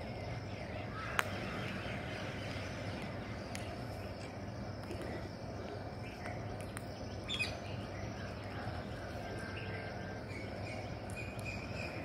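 Outdoor background noise with a low steady hum and scattered bird calls: a short call about seven seconds in and faint chirps near the end. A single sharp click about a second in.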